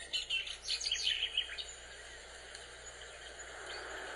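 Small birds chirping outdoors: a cluster of short high chirps in the first second or so, then fewer and fainter ones over a steady background hiss.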